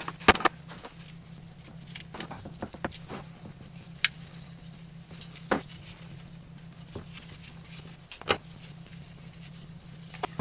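Scattered sharp clicks and knocks, a few louder than the rest, over a steady low hum.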